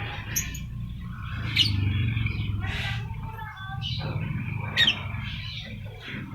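Lovebirds calling: several sharp, high chirps that drop quickly in pitch, mixed with rougher squawks, over a steady low rumble.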